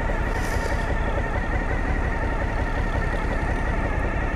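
Suzuki V-Strom motorcycle's V-twin engine running steadily at low revs.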